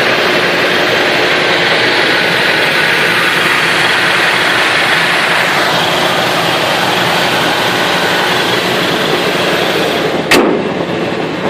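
Chevy C10 pickup's engine idling steadily and a little high, with the choke still on. A single sharp click about ten seconds in.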